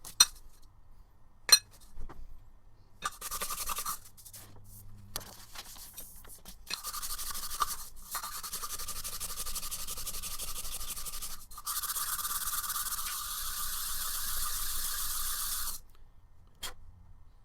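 Steady abrasive grinding against the surface of a trimmer attachment part to smooth it flat. It comes in two long stretches of about four to five seconds each, after a few sharp knocks and short scrapes at the start.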